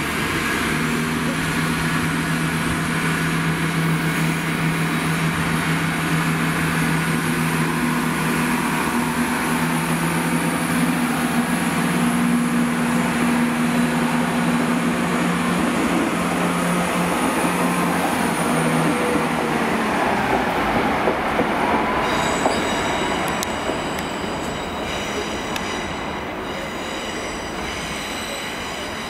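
A CrossCountry Class 170 Turbostar diesel multiple unit runs past, its underfloor diesel engine droning steadily with rail noise. The drone fades out about two-thirds of the way through. Near the end a high-pitched metallic squeal of train wheels comes in.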